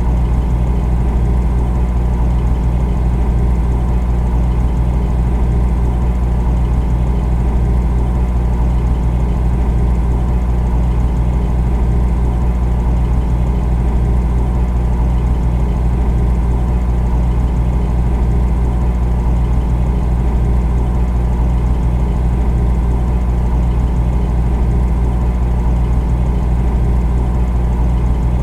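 Refrigerator running with a steady low hum.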